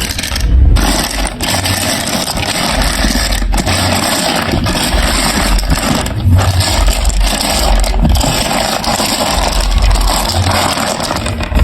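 Marbles rolling and clattering through a plastic marble run track: a continuous rolling rattle with repeated low rumbles and scattered sharp clicks.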